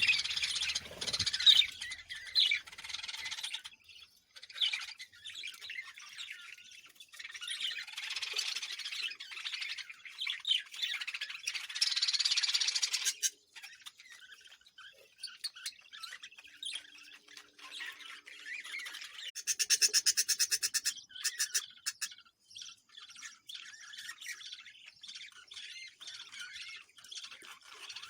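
Several birds chirping and squawking in a dense, overlapping chatter. About two-thirds of the way through comes a loud, fast, evenly pulsed call lasting a second or two.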